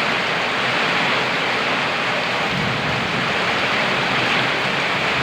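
Steady rain falling, an even hiss, with a low rumble of thunder coming in about halfway through.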